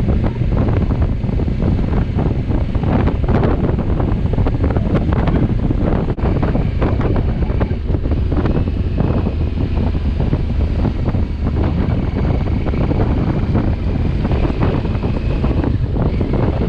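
Heavy wind buffeting the microphone of a camera on a moving motorcycle: a loud, steady low rumble that gusts up and down, with a faint thin whistle at times.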